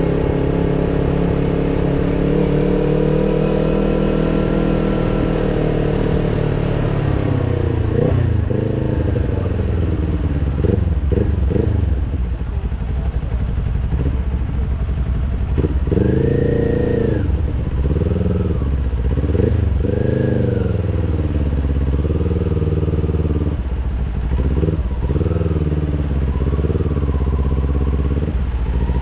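Kawasaki Ninja sportbike engine running with a steady drone at first, then revved in a series of short throttle blips, each rising and falling in pitch, from about eight seconds in.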